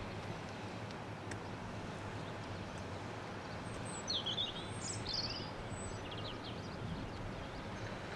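A bird gives a short run of sharp chirps about halfway through, over a steady low outdoor rumble.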